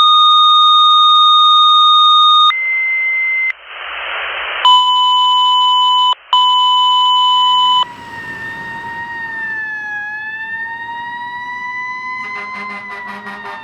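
Loud, steady electronic tones and a burst of hiss, changing abruptly every second or two. Then, from about eight seconds in, a fire engine's siren wails with a slowly dipping and rising pitch over road noise. A rapid pulsing tone joins it about twelve seconds in.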